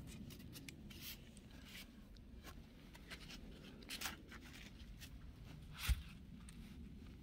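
An axe strikes a firewood log once, a sharp chop about six seconds in. Before it there are faint scrapes and light knocks.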